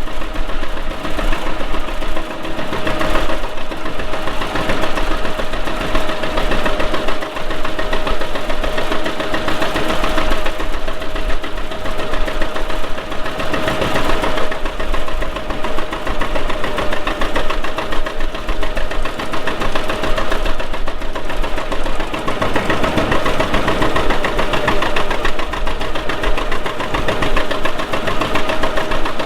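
Antique farm tractor engine running steadily under way, with a rapid, even beat.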